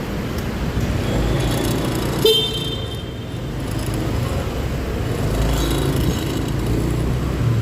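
Scooter riding through city traffic, with steady engine and road noise. One short horn beep sounds about two seconds in.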